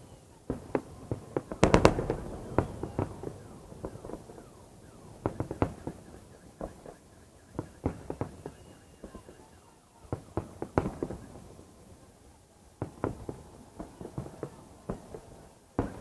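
Fireworks display going off: an irregular run of sharp bangs and cracks with echoing tails, the loudest burst of several bangs close together about two seconds in.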